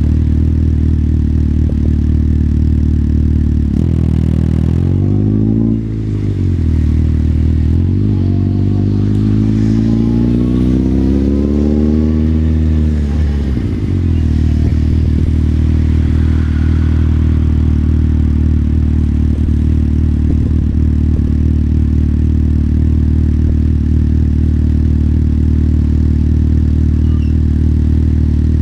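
Motorcycle engine idling steadily, its revs rising and falling briefly about four seconds in, then climbing and dropping back again over several seconds from about eight seconds in, before it settles back to a steady idle.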